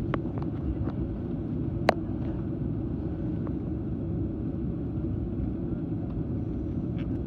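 Steady low rumble inside a jet airliner's cabin with the engines running, broken by a few sharp clicks, the loudest about two seconds in.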